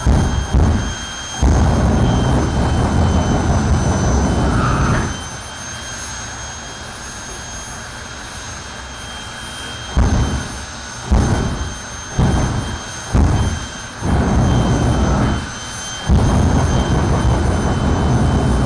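Jet car's turbine engine with a steady high whine, hit by repeated loud deep blasts of afterburner: some short bursts, some held for a few seconds. The whine carries on alone through a quieter stretch in the middle.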